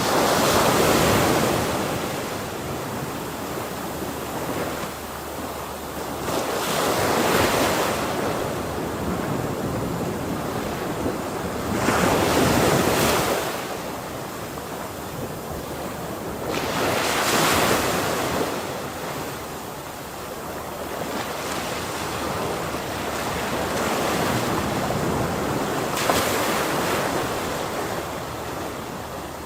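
Ocean waves breaking on a shore, a continuous wash of surf that swells with each wave roughly every five seconds, with some wind on the microphone.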